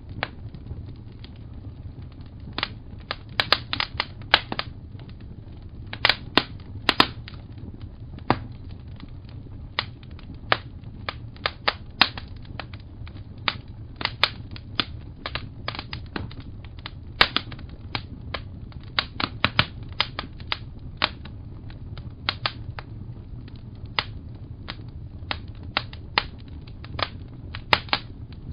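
Wood fire crackling, with irregular sharp pops and snaps, some in quick clusters, over a steady low rumble.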